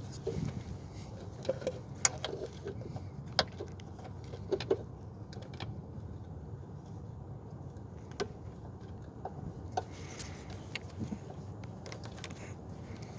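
Scattered sharp clicks and clinks of hand tools and metal parts being worked on a car, over a steady low hum.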